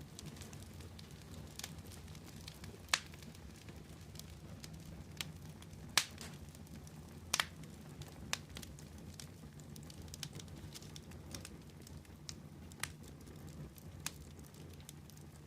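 Wood fire burning with a steady low rumble and irregular sharp crackles and pops, the loudest about three, six and seven seconds in.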